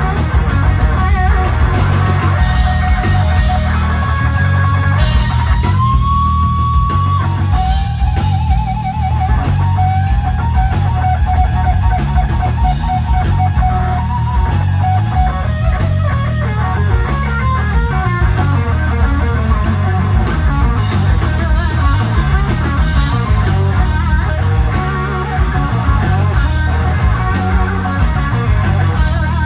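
Electric guitar-led band music with bass and drums. About six seconds in, a lead guitar bends a note up and holds it, then sustains a lower note with wide vibrato for several seconds.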